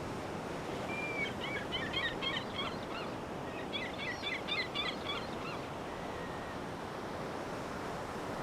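A songbird singing two quick phrases of rapid repeated chirping notes, each about two seconds long, over a steady rushing background noise.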